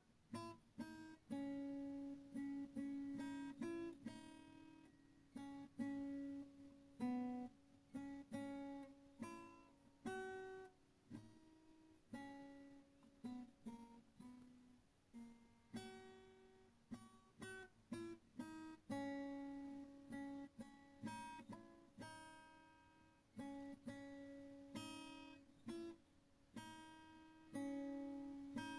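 Background music: acoustic guitar played with plucked and strummed notes that ring and fade, in an unhurried rhythm.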